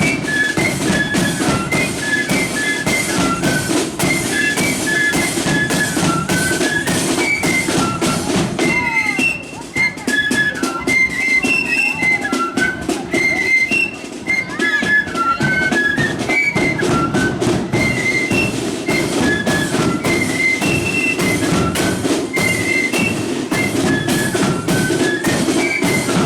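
Marching flute band playing a tune: flutes carry a quick melody of short notes over steady snare and bass drumming.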